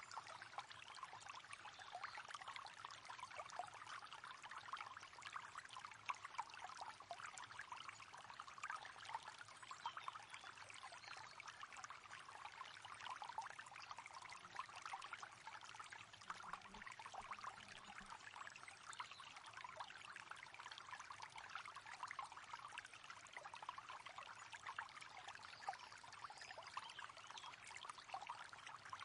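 River water flowing, a faint, steady rush full of fine splashes and trickles.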